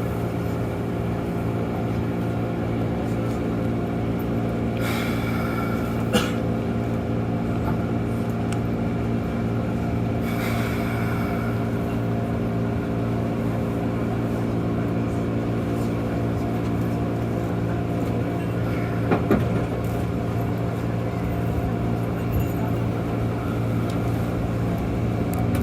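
Keikyu 1500 series electric train running at a steady speed, heard from inside the car: a continuous hum of several steady tones. Occasional sharp clicks and brief hissing come through over the hum.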